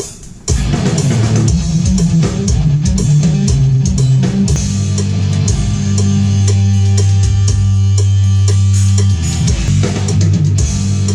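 Band music with guitar, bass and drum kit, starting about half a second in, with a long held low note in the middle and fading near the end.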